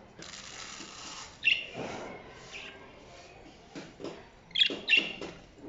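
Small cage birds chirping: a few short, sharp, high calls, one about a second and a half in and two in quick succession near the end, over faint rustling.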